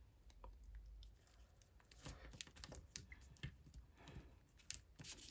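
Faint rustling and scattered small clicks of a label-maker sticker being peeled off its backing, a label that is hard to get off.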